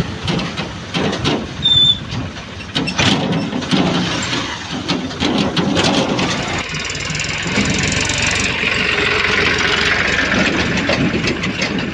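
Heavy diesel machinery engine running, with irregular knocks and clatter through the first half, then a steadier, even running sound.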